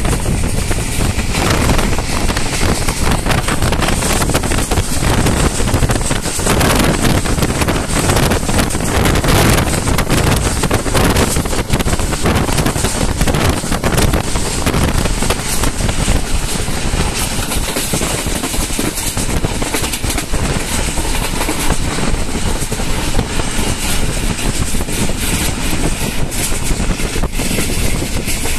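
Steady loud rushing noise of a train running at speed, with wind buffeting the microphone at the carriage window.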